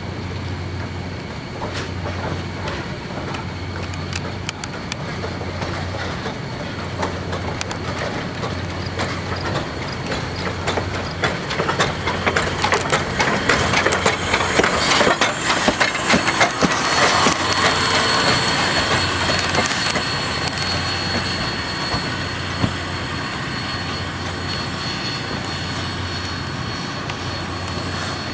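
Lehigh Valley Coal Company 126, a small 0-6-0 tank steam locomotive, running past on the track. A steady rumble of wheels and running gear with rapid clicking and clanking builds to its loudest around the middle, then a thin high squeal holds as it moves on.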